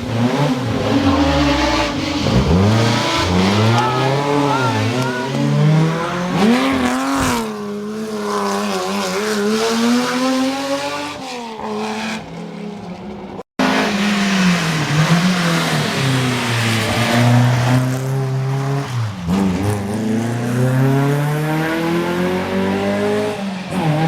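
Historic rally cars on a special stage, their engines revving hard and rising and falling in pitch through gear changes and throttle lifts as they drive through, with some tyre squeal. The sound cuts off abruptly about halfway, then another car's engine revs up and down the same way.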